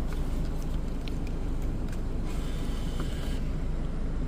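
Car engine idling, a steady low rumble heard from inside the cabin. A brief higher whirring hiss comes about two seconds in, along with a few faint clicks.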